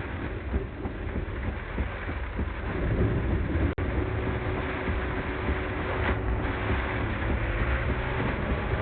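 A car driving through a heavy thunderstorm downpour, played back at double speed: steady road and rain noise over a low rumble with a faint hum, cutting out for an instant about four seconds in.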